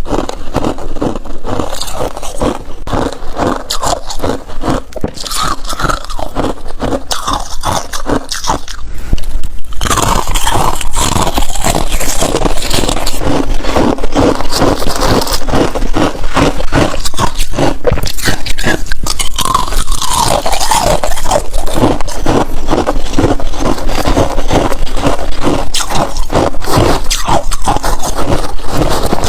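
Freezer frost being bitten and chewed close to the microphone: dense, rapid crunching and scraping, getting louder about a third of the way through.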